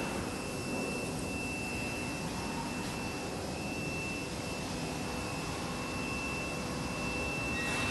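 Steady machine hum with a thin high whine, typical of an industrial welding machine running. There is a short noisy swell at the start and another near the end.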